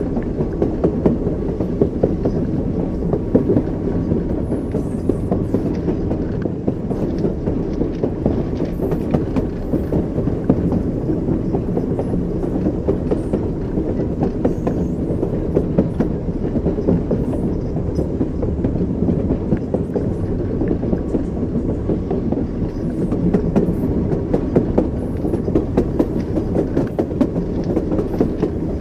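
Train running on the rails: a steady low rumble with the rattle and clickety-clack of the wheels passing over rail joints.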